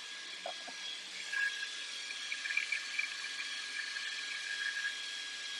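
V-Guard pressure booster pump running continuously with a steady whine and hiss. It keeps running and does not cut off, which the owner puts down to a failed Danfoss KP-35 pressure switch.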